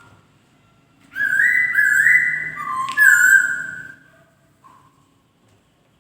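Poksay (laughingthrush) singing: after a short pause, one loud phrase of clear, stepping whistled notes lasting about three seconds, then a single faint note and a pause.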